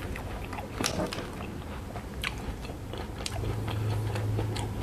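Close-up chewing of a bite of Oreo ice cream bar, its Oreo-biscuit coating and ice cream giving soft crunches and wet mouth clicks. A low steady hum joins about three seconds in.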